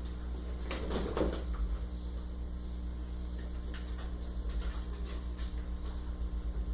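Dachshund playing with a pillow: scuffling and rustling of fabric and a few light knocks, busiest about a second in, over a steady electrical hum.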